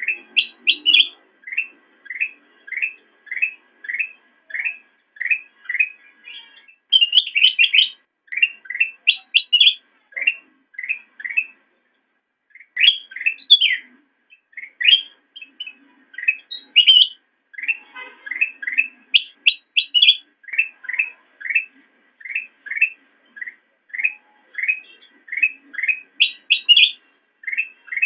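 Kutilang emas, a bulbul, singing a long run of short repeated chirps, about two a second. Every few seconds the run is broken by louder, higher, faster phrases.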